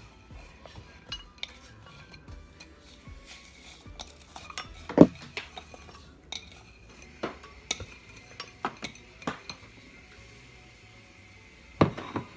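Frozen peach slices being tipped from a bowl into a glass blender jar: irregular clinks and knocks of the bowl and hard frozen fruit against the glass, the loudest about five seconds in, a quick run of knocks a little later and a pair near the end.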